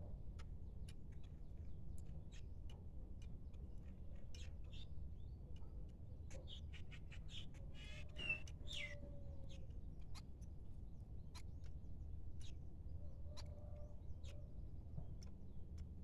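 Small birds calling: scattered sharp ticks and short chirps, busiest around the middle, with a few low drawn-out notes, over a steady low rumble.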